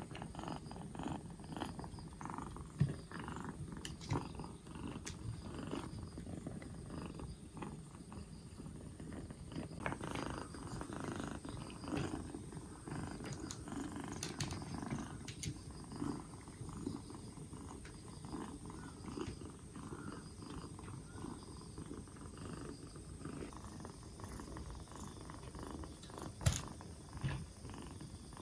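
A two-month-old kitten purring steadily and close up, a low continuous rumble. A few short knocks break in, the loudest near the end.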